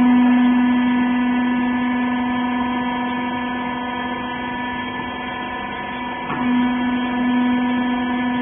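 Rag baler's hydraulic pump and motor running with a steady hum. The hum's main tone fades a little through the middle and returns strongly about six seconds in, as the load changes.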